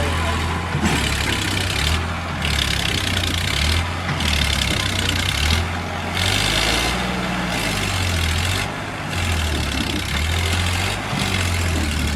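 Sonalika 745 DI tractor's diesel engine running, its speed rising and falling every second or so.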